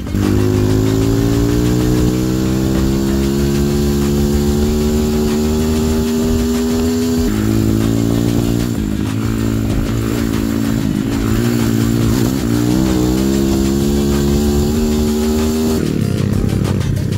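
Enduro motorcycle engine pulling under load, its revs climbing slowly, dropping sharply about seven seconds in and again near the end as gears change.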